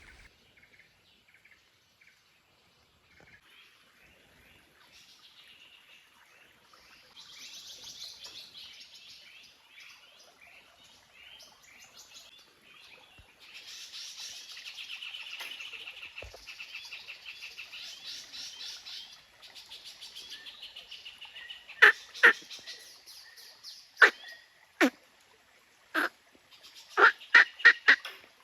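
Forest birds calling: a fast, pulsing chatter that swells and fades, then a series of loud, short, sharp calls near the end.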